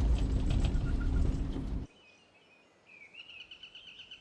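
A loud low rumble with a steady hum cuts off abruptly about two seconds in. It gives way to quiet, where a bird starts a fast run of repeated high chirps about a second later.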